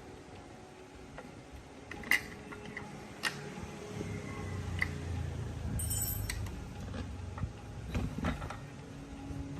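Scattered sharp clicks and light metallic knocks of small parts and tools being handled during a repair, with a low rumble swelling in the middle.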